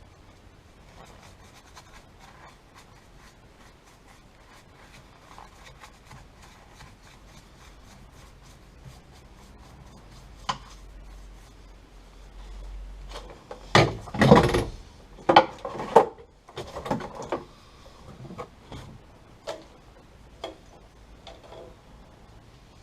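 Paintbrush scratching and rubbing over welded sheet-steel car floor panels as paint is brushed on. A little past halfway comes a burst of louder knocks and rustling, followed by a few scattered clicks.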